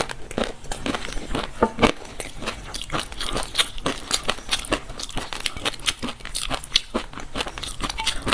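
A person chewing a mouthful of fish roe, the small eggs popping in rapid, irregular crackling clicks.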